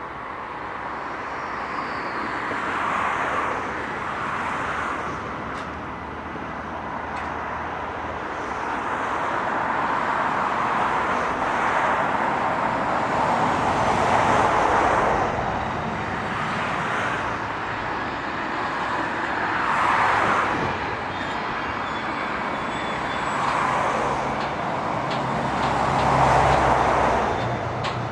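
Train rolling past on the rails, a steady rumble of wheels that swells and fades every few seconds, with a low hum coming in near the end.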